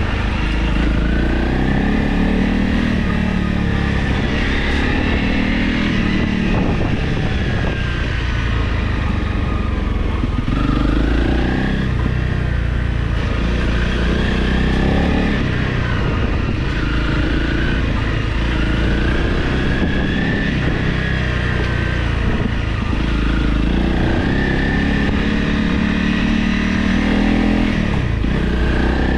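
Honda CRF Rally motorcycle's single-cylinder engine running under way off-road, revving up and easing off repeatedly as the rider works the throttle.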